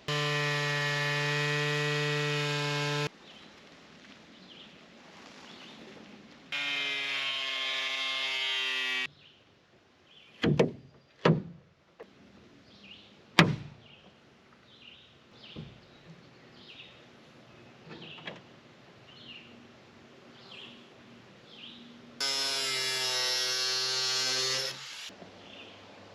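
A handheld electric power tool running at a steady speed in three bursts of two and a half to three seconds each. Between the second and third burst come three sharp knocks, then faint short sounds about once a second.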